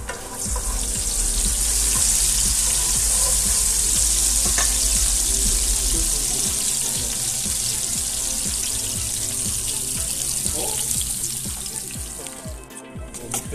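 Chopped vegetables sizzling in hot oil in a nonstick skillet, stirred with a wooden spatula. The sizzle starts strong just after the beginning and slowly dies down toward the end.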